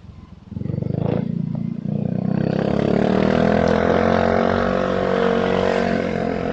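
Motorcycle engine pulling away about half a second in and running up to a steady engine note as it rides on.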